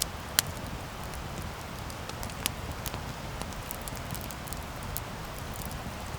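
Wood campfire burning, crackling with sharp pops (a loud one about half a second in, others scattered through) over a steady low rumble of the flames.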